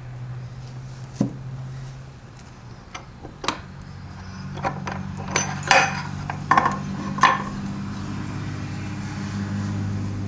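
Metal transfer case parts being handled: a string of sharp metallic clinks and clanks, thickest between about five and seven and a half seconds in, over a steady low hum.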